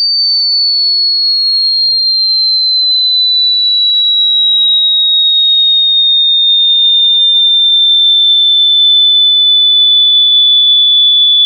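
A single pure, high-pitched electronic tone, loud and steady, gliding slowly and evenly down in pitch.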